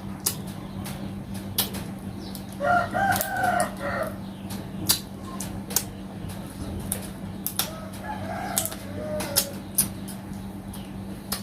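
Crab shell cracking and crunching as it is eaten: sharp clicks scattered throughout. A chicken calls in the background, once for about a second starting two and a half seconds in and again more faintly around eight seconds.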